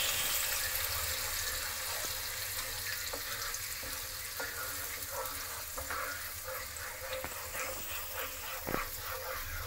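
Onion and garlic paste sizzling in hot oil with cumin seeds in a nonstick kadai, stirred with a wooden spatula that scrapes and knocks against the pan again and again over a steady sizzle.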